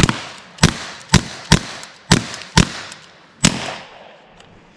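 Modified VKS Pro .68-calibre air-powered less-lethal launcher firing a string of about seven shots, roughly two a second and unevenly spaced. Each shot is a sharp crack with a short tail, and the firing stops about three and a half seconds in.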